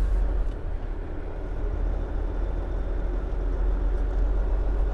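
Dump truck's diesel engine running steadily, heard from inside the cab.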